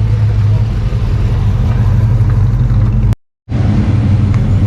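Car engine running steadily at a low, even pitch, broken off by a short gap of silence about three seconds in.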